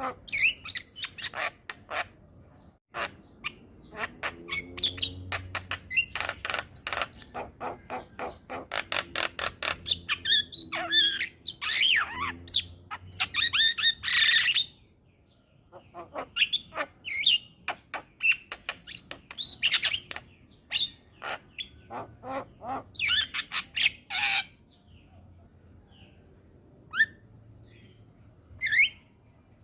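Javan myna singing: rapid runs of clicking notes mixed with harsh squawks and short whistles. It pauses briefly about halfway and goes quieter for a few seconds near the end.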